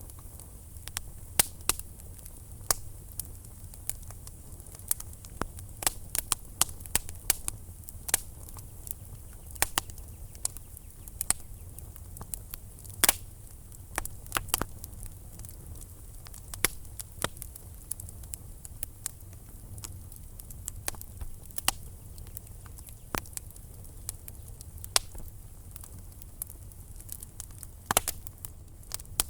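Wood fire burning in a fireplace: irregular sharp crackles and pops, a few louder snaps, over a low steady rumble of the flames.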